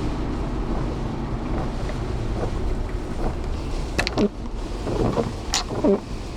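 Steady low rumble of wind and the vehicle heard from inside the car, with a few sharp clicks and short squeaks in the second half.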